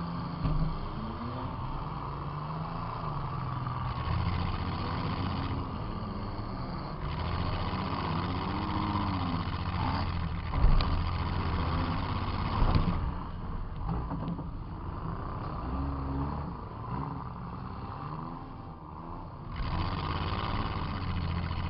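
Demolition derby car's engine heard from inside the car, revving up and falling back again and again. Two sharp impacts about two seconds apart come near the middle.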